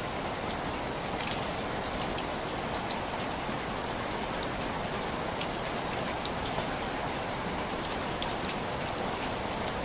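Steady rain pattering on window glass, with individual drops tapping sharply here and there over an even hiss.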